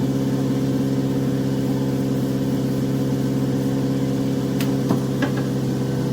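2004 Honda Civic Si's K-series four-cylinder engine running steadily at an even speed, with a few light clicks near the end.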